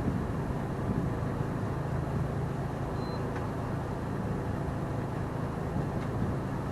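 Fishing boat's engine running steadily: a constant low hum with water and wind noise around it.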